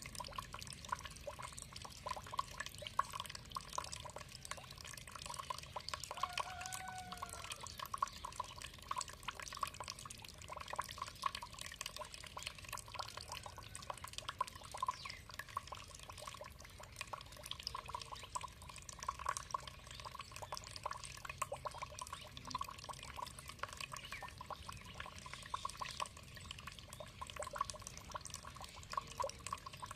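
Water trickling and dripping steadily, with many quick drops and splashes. A single short arching bird call sounds about seven seconds in.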